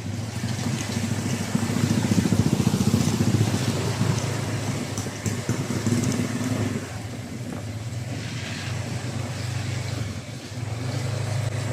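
A motor vehicle's engine running steadily, a low drone that eases off a little about seven seconds in.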